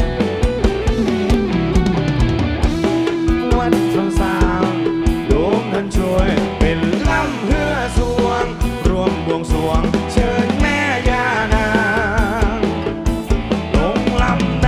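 Live rock band playing an instrumental passage: a lead melody that slides and wavers in pitch over electric guitar, bass and a steady drum kit beat.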